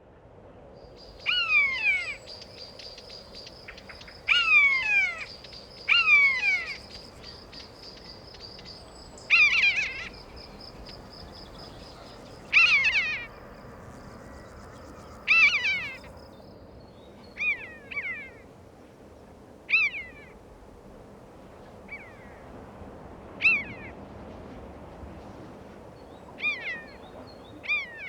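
A bird calling loudly and repeatedly, each call a quick run of sharply falling notes, coming every two to three seconds. The calls grow softer and shorter in the second half.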